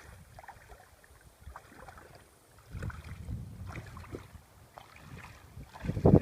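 Wind buffeting the microphone in uneven low rumbling gusts, picking up about three seconds in and strongest near the end.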